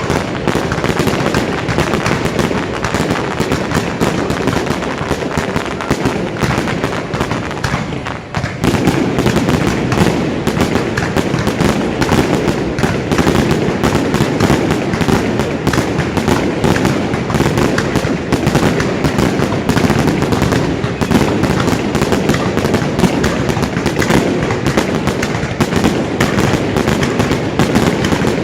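Fireworks going off in a dense, continuous barrage of bangs and crackles, with a brief lull about eight seconds in.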